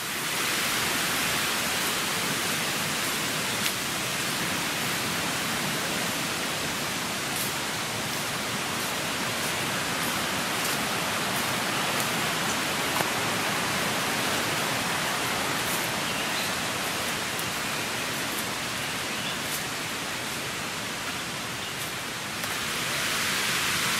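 Steady rush of water from a cascading jungle stream, with a few faint clicks now and then.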